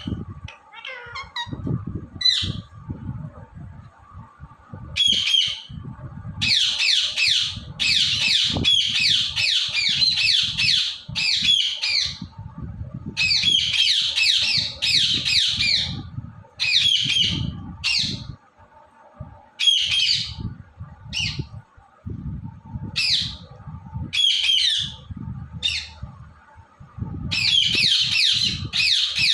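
Indian ringneck parakeet squawking: harsh, high-pitched screeches in short bursts, with two longer runs lasting a few seconds each.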